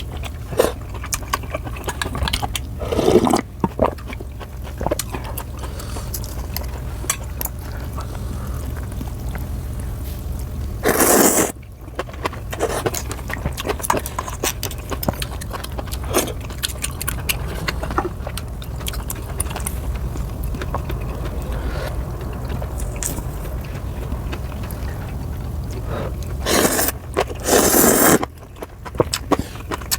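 Close-up eating sounds of noodles and kimchi: steady wet chewing clicks, with three louder slurps of noodles, a few seconds in, about eleven seconds in and near the end, over a low steady hum.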